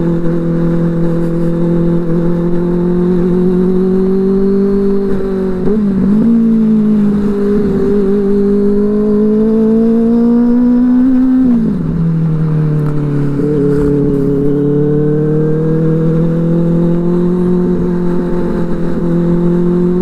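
Benelli 600i's inline-four engine running through an aftermarket IXIL exhaust while being ridden. The engine note dips briefly about a quarter of the way in, then climbs slowly, drops sharply just past halfway, and climbs slowly again.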